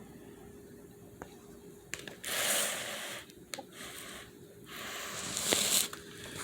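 Rustling and handling noise close to the microphone: three or four hissing, scraping bursts of about a second each, with a few sharp clicks between them, over a faint steady hum.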